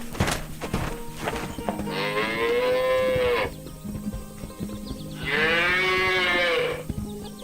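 Two long moos from cattle, each about a second and a half, rising then falling in pitch; the first comes about two seconds in and the second about five seconds in. A few sharp clicks come before the first moo.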